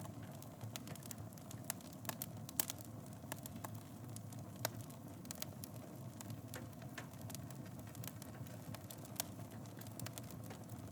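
Wood fire burning in a fireplace: frequent irregular crackles and pops over a low, steady rumble of flame, with the sharpest pop about two and a half seconds in.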